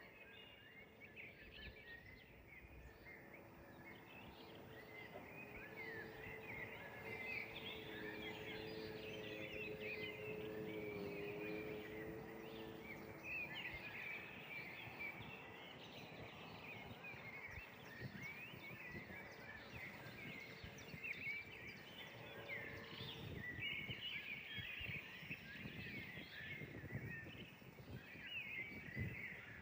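Many small songbirds chirping and trilling together in a dense, faint chorus. A low steady hum sits underneath for a while and fades out near the middle.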